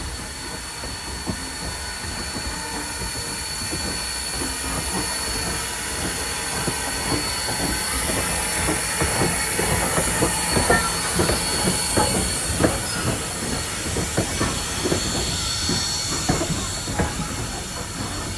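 Steam-hauled train of former Norfolk and Western locomotive 475 running, with a steady steam hiss, growing slowly louder. From about halfway through, sharp clicks of the wheels over the rail come thick and fast.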